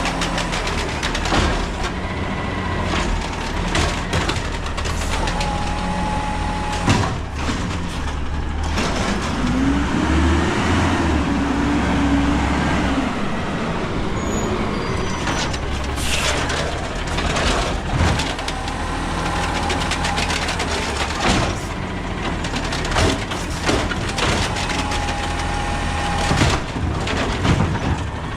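Peterbilt 320 garbage truck running, its engine humming steadily. About ten seconds in a pitch rises and falls, and sharp knocks and bangs come at intervals throughout.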